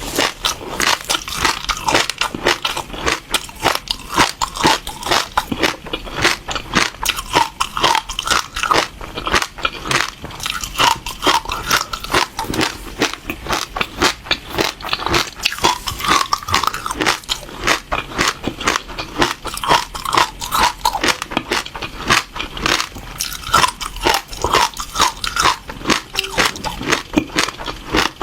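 Crunchy seeds being bitten and chewed close to the microphone: a fast, continuous run of crisp little cracks, many each second.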